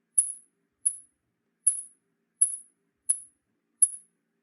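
Bat's short, high-pitched chirps, repeated evenly about every 0.7 seconds, six times.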